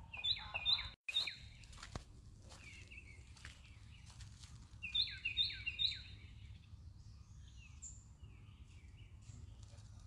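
Small birds chirping: a quick run of three falling chirps at the start and another about five seconds in, with fainter chirps in between.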